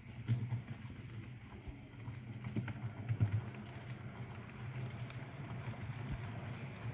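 Model railway locomotive running on the layout: a steady low hum with scattered light clicks.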